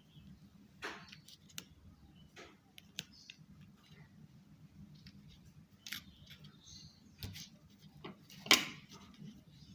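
Irregular small clicks and taps from small hard parts being handled, with the loudest knock about eight and a half seconds in.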